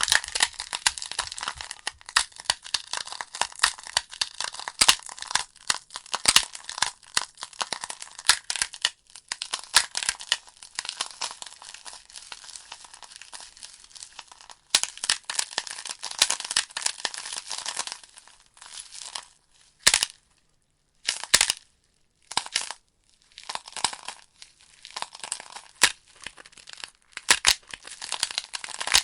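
Logs burning in a fireplace, crackling with rapid, irregular pops and snaps over a soft hiss. About two-thirds of the way through the crackle thins to a few sharp, separate pops with brief silences between them, then grows dense again.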